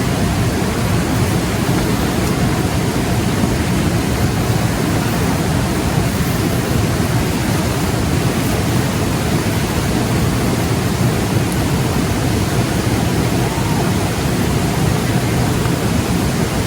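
Steady, loud rushing noise, even and unbroken throughout.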